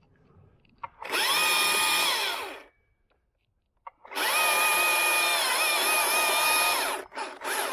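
Chainsaw cutting a face notch in a white oak: it revs up and runs at a steady high pitch for about a second and a half, stops, runs again for about three seconds, then gives a short third burst near the end. It falls quiet between runs.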